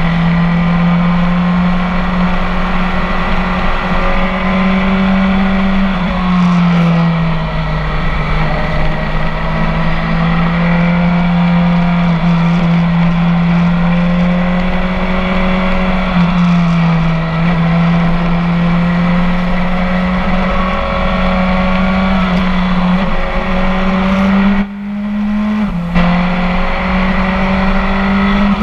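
BMW K1300 S inline-four engine running through a full Akrapovic exhaust, heard onboard while riding. The engine pitch holds fairly steady, dipping and climbing back a few times. Near the end the sound briefly drops away for about a second, then comes straight back.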